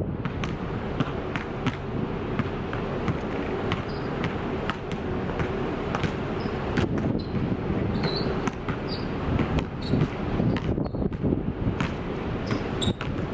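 Basketball bouncing on a hard court: a run of irregular sharp thuds over steady background noise, with a few short high squeaks.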